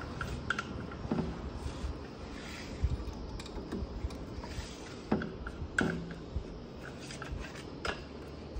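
Irregular light clicks and metal taps as tools and parts are handled during the repair work, a few with a short ringing clink, the sharpest about three, five and six seconds in.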